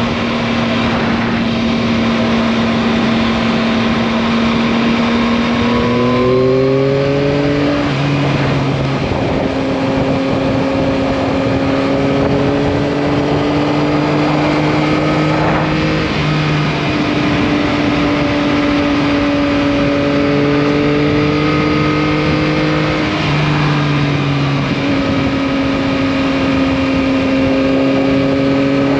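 Yamaha MT-09 (2021) 890 cc inline three-cylinder engine running at a steady cruising speed while riding. Its pitch rises a little about six seconds in and dips briefly a few seconds before the end.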